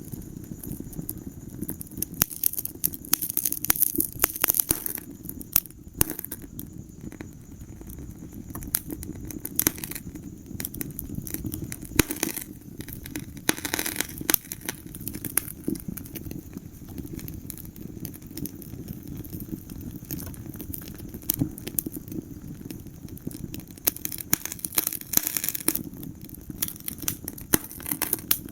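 Wood fire crackling in a fireplace: irregular sharp snaps and pops over a steady low rumble, with denser flurries of crackles a few times.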